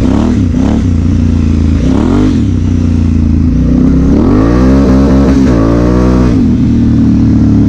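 2016 Honda Africa Twin CRF1000L's parallel-twin engine running under way, with a few quick throttle blips in the first couple of seconds, then revving up and back down over about two seconds near the middle.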